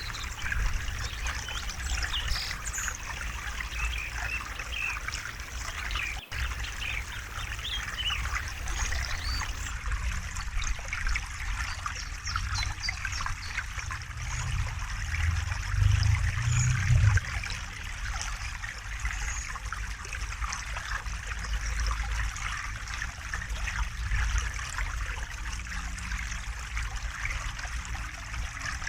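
River water babbling and trickling over rocks, a steady splashy rush with a low rumble underneath. The rumble swells briefly a little past the middle.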